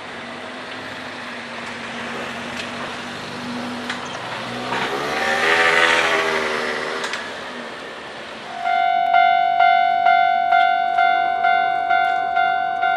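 Kintetsu electric train running past, its noise swelling midway with a wavering tone, then fading. Near the end a Japanese level-crossing warning bell starts its clanging, about two strikes a second, signalling that another train is coming.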